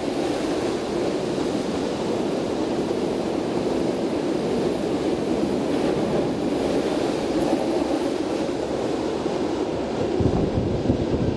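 Steady rumble of a train rolling along the rails, with a deeper low rumble coming in about ten seconds in.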